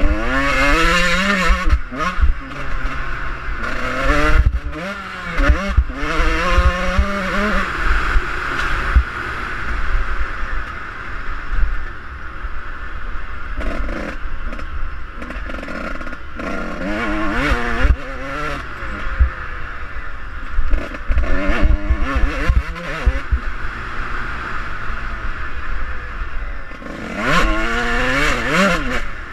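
Suzuki RM125 two-stroke dirt bike engine being ridden hard, its pitch climbing and dropping back again and again as it revs through the gears, with wind buffeting the microphone.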